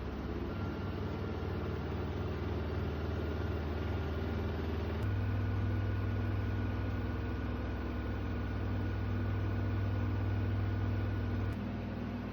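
Miele W2 washing machine running, its drum motor giving a steady mechanical hum with a faint high whine. The hum shifts up and gets louder about five seconds in, then changes again near the end.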